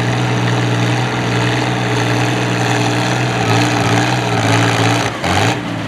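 Antique farm tractor engine running hard and steady under load, pulling the weight sled. Its pitch wavers in the last couple of seconds, then dips with a couple of knocks a little over five seconds in, and the engine note falls off.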